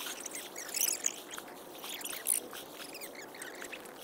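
Water splashing and sloshing, with a scatter of small crackles and ticks, a little louder about a second in and again past two seconds.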